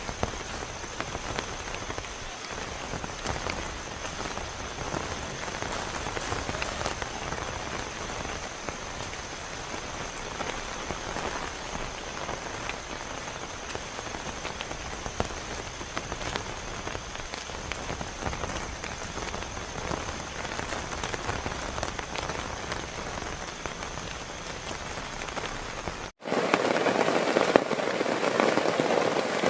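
Heavy rain falling and pattering on surfaces, a steady hiss with many small drop hits. About 26 seconds in it cuts off abruptly and gives way to a louder, rougher rush of noise.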